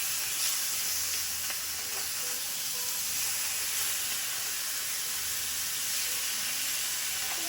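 Meat sizzling steadily as it cooks on a hot cooking surface.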